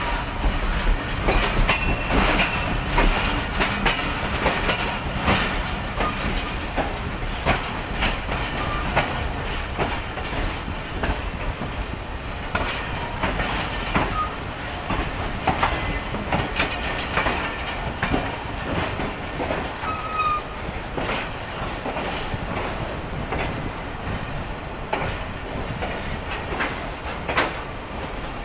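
Passenger train's coaches rolling into a station, wheels clacking irregularly over rail joints, with a few brief faint wheel or brake squeals.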